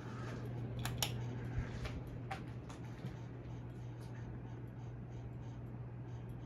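Hampton Bay Carousel ceiling fan (CEI) running with a steady low motor hum. A few sharp clicks come in the first three seconds, and a faint regular ticking joins in the second half.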